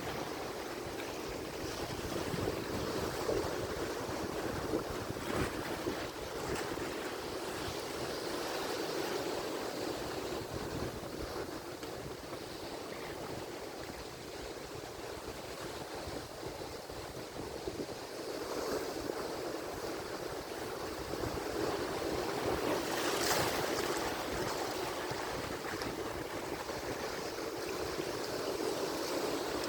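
Atlantic Ocean surf: a steady rush of waves breaking and washing in, swelling louder twice, with one short, sharper crash about three-quarters of the way through.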